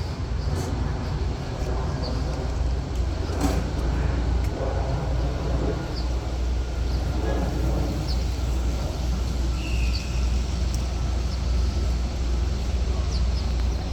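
Outdoor city park ambience: a steady low rumble of traffic with faint passing voices and scattered short high chirps.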